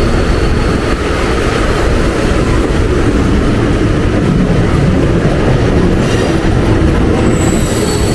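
Mumbai suburban local train running, heard from inside the carriage: a steady rumble of wheels on the rails, with a faint high wheel squeal near the end.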